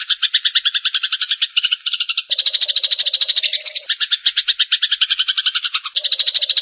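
Eurasian tree sparrows giving their harsh fighting chatter: a fast, unbroken run of chirps, about ten a second, that shifts abruptly in pitch and pattern three times.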